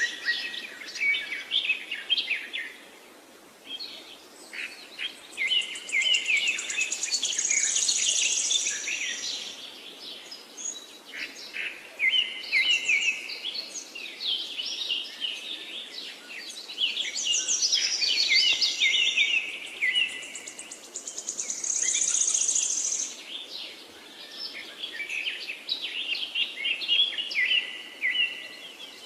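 Small birds chirping and chattering together, in bursts of rapid high calls with a few short lulls, some calls running into buzzy trills.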